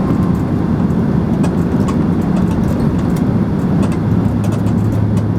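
Steady low cabin drone of a Boeing 767-300ER with its engines running, heard from inside the passenger cabin, with a constant hum and a few faint ticks.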